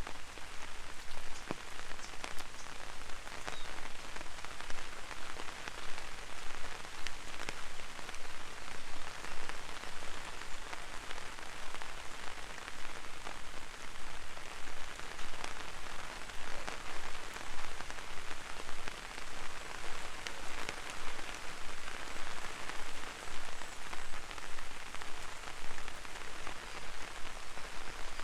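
Light rain falling on an umbrella: a steady hiss of rain with many single drops ticking.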